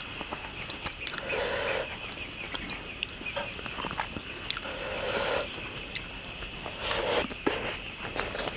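Close-up eating sounds: wet chewing and lip-smacking with many small clicks, coming in a few short bouts, over a steady high-pitched pulsing tone.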